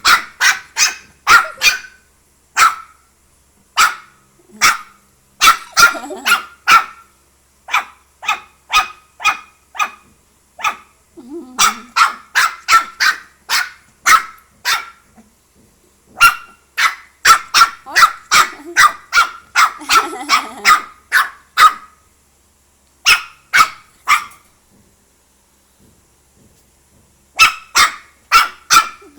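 A dog barking in quick runs of short, sharp barks, a few per second, broken by pauses and one longer silence a little after the middle.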